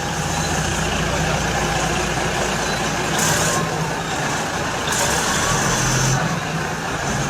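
Heavy vehicle engine running steadily, with two bursts of hissing air about three and five seconds in.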